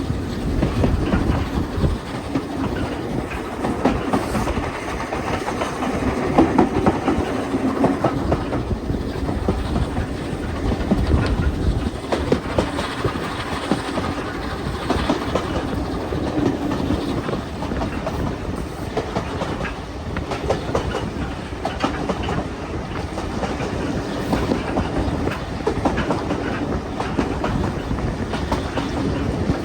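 Train running steadily on the rails: a constant rumble with wheels clicking over the rail joints.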